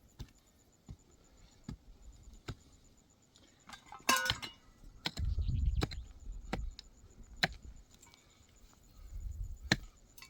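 Scattered light knocks and taps, with a short ringing clink about four seconds in.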